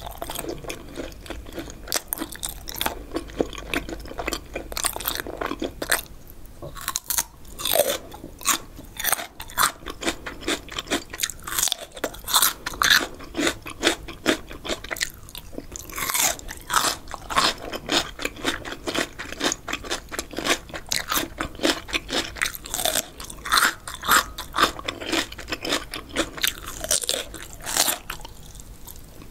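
Close-miked biting and chewing of crisp raw cucumber: a long run of sharp, wet crunches.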